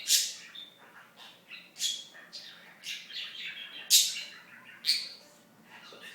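Pet budgerigar giving short, sharp high squawks roughly once a second, with softer chattering between.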